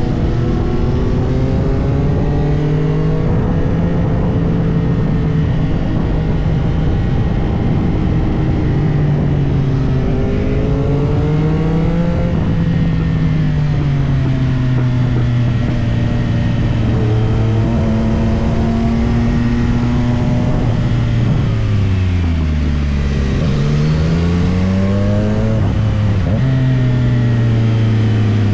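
CFMOTO 675SR-R's inline three-cylinder engine under way, the revs repeatedly climbing and falling as the bike accelerates and shifts, over a steady rush of wind. A little over twenty seconds in, the revs drop low and then climb back up.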